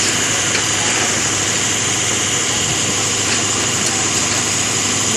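A vehicle engine idling steadily, with a constant high-pitched hiss over it.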